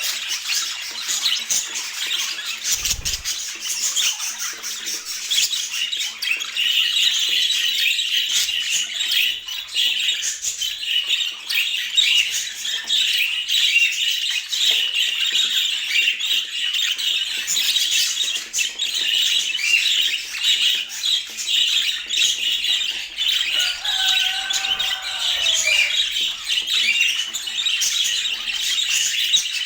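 Budgerigars chattering and warbling without pause in a dense, high-pitched stream of squawks and chirps. Near the end a lower call falls in pitch. About three seconds in there is one brief low thump.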